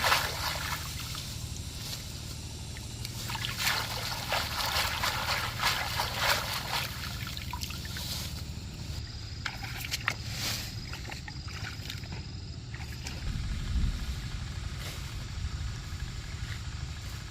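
A small engine running steadily at a low pitch, louder near the end, with bursts of rustling and clattering over it.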